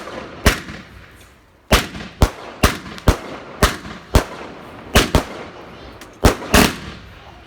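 Fireworks going off: about a dozen sharp bangs at irregular intervals, each trailing off in a short echo, with a brief lull about a second in.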